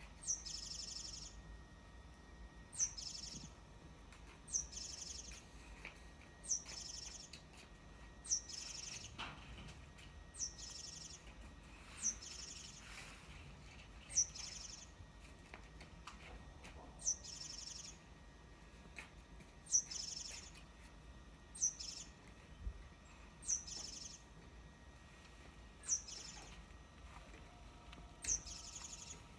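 A small songbird repeating a short high song phrase about every two seconds: a sharp high note followed by a brief buzzy trill. The uploader wonders whether it is a wagtail.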